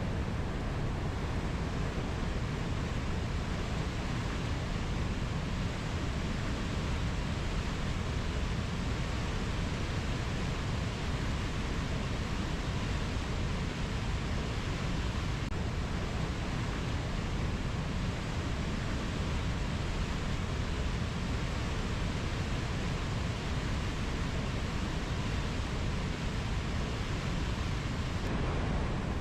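Steady, even rushing noise of a nature ambience, with no distinct calls, drips or other separate events.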